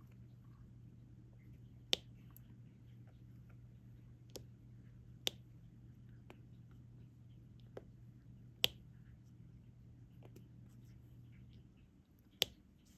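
A diamond painting drill pen placing resin drills onto the sticky canvas: about eight sharp, light clicks at irregular intervals, one every one to three seconds. A low, steady hum runs underneath and stops about a second before the end.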